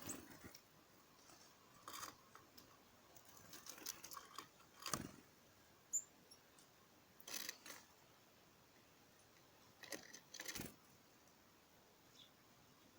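Small birds feeding: faint, scattered pecking taps and clicks at irregular intervals, with one brief high chirp about halfway through.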